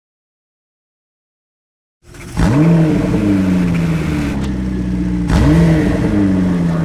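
Porsche 911 GT3 (991) flat-six breathing through an Akrapovič titanium exhaust, starting up loud about two seconds in and revved sharply twice, about three seconds apart, the pitch falling away slowly after each rev.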